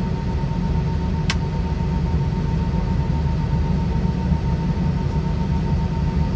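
Steady low drone inside the cabin of an Airbus A320 with IAE V2500 engines, heard from a window seat: engine and airflow noise with a faint steady whine above it. A single sharp click sounds about a second in.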